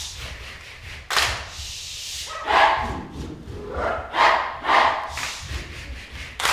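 Short loud barks, mostly in pairs about half a second apart, with a rushing hiss about a second in.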